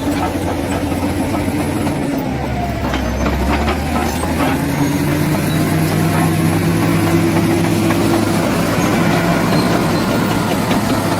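Bulldozer's diesel engine running under load, its note dipping about three seconds in, then climbing and holding.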